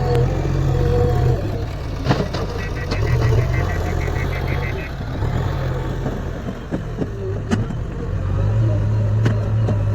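Diesel engine running steadily while a tractor trolley is loaded with soil. There are a few sharp knocks, and a short run of rapid electronic beeps about three seconds in.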